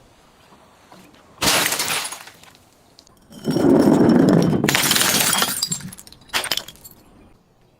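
Glass bottles breaking: a sudden smash about a second and a half in, then a longer crash and crunch of breaking glass lasting about two and a half seconds, and a short sharp crack near the end.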